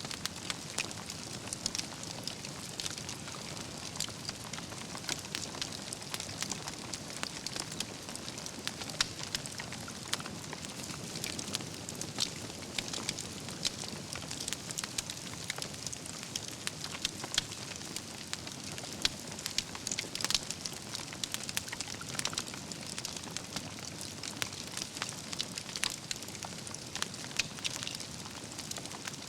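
Wood campfire burning, with a steady low rumble of the flames under dense, irregular crackling and a few sharper pops from the burning logs.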